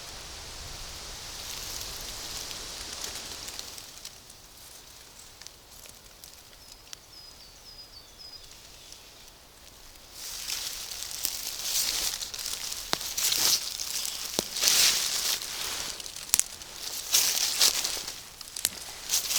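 Rustling of forest undergrowth and leaves with sharp snaps and clicks as someone works through the plants, typical of picking young fern stalks. It is softer at first and much louder from about ten seconds in. A few faint high bird chirps come in the quieter middle.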